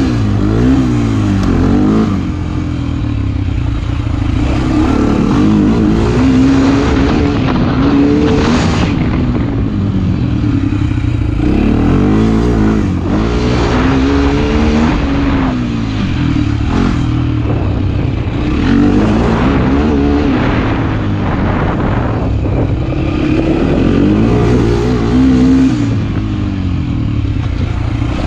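Motorcycle engine under way, its pitch climbing and dropping again and again as the rider speeds up, shifts and eases off, with wind rushing over the microphone.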